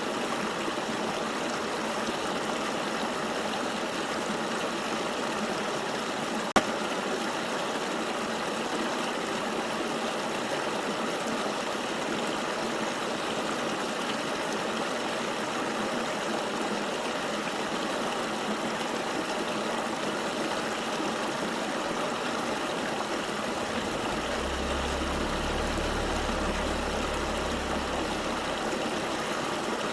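Steady rush of flowing river water. A single sharp click about six seconds in, and a low rumble lasting about five seconds near the end.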